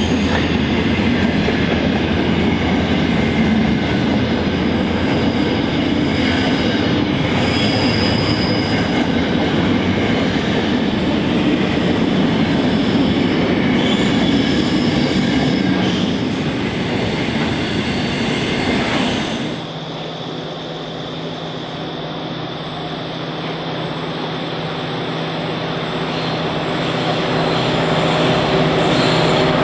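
A container train's wagons rolling past, with rumbling wheels and a few brief high wheel squeals. About two-thirds of the way through, the sound changes abruptly to the steady hum of a coal train's NSW 90 class diesel locomotives approaching and growing louder.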